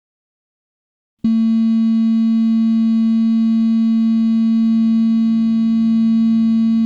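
Silence, then about a second in a loud, steady buzzing tone with many overtones starts abruptly and holds unchanged, the opening drone of a death metal track before the band comes in.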